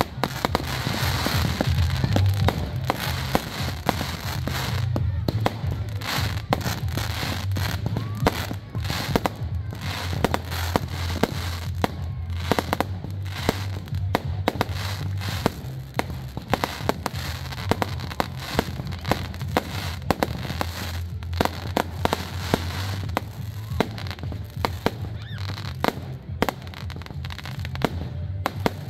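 Fireworks going off in a continuous barrage of sharp bangs and crackling pops, over a steady low hum.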